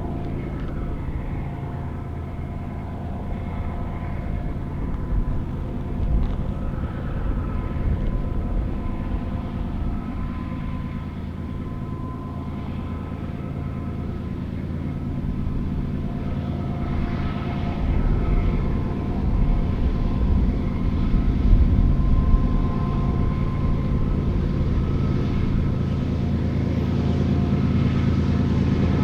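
Diesel freight locomotives leading a BNSF intermodal train run with a steady engine drone, carrying a few higher steady tones. The sound grows gradually louder as the train approaches.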